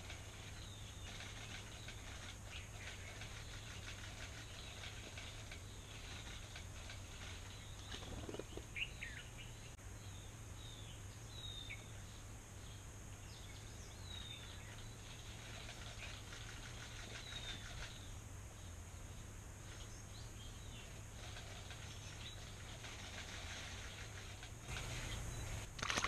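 Scattered short bird chirps and calls over quiet background hiss; near the end a bird splashes down into shallow water.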